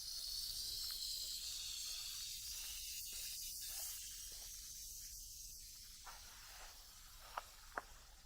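Sea wave washing ashore: a hiss that swells and then slowly fades away, with two sharp clicks near the end.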